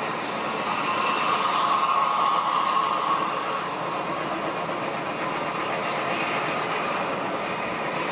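Coach bus on the move: steady engine and road noise, with a whine that swells about a second in and fades by three seconds.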